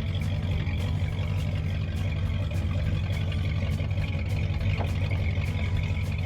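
Pickup truck engine running steadily, a low even drone with no change in pace.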